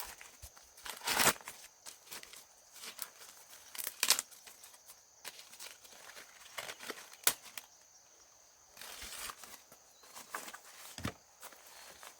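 Dry corn leaves and husks rustling and crackling in irregular bursts as corn is handled by hand, the loudest burst about a second in.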